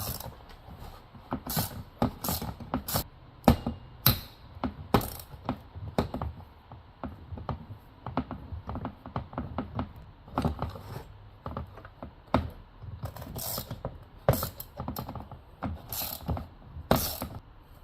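Irregular clicks and knocks of hand tools on metal as the bolts holding a chainsaw's cylinder barrel are undone.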